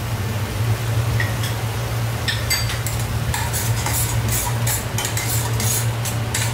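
Metal spatula stirring and scraping poppy-seed paste as it fries in oil in a kadai, in quick repeated strokes that start about two seconds in, over a soft sizzle. A steady low hum runs underneath.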